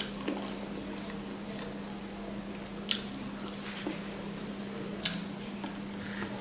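Close-up mouth sounds of a person eating rice and fish curry by hand: wet chewing and squishing with several sharp smacks, the loudest about three seconds in, over a steady low hum.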